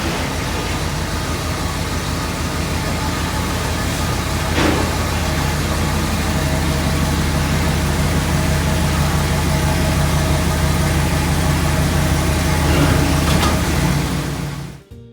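1988 Dodge Ram D150 pickup engine running steadily through its true dual exhaust, fading out near the end.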